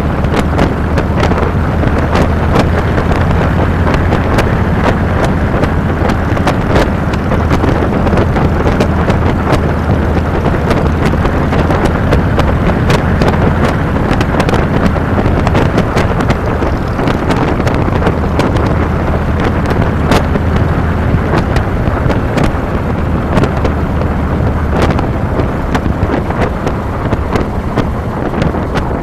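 Wind rushing over a handlebar-mounted microphone on a moving 2007 Harley-Davidson Fat Boy, with the motorcycle's V-twin engine running steadily as a low hum underneath. Many short sharp crackles from wind buffeting the microphone.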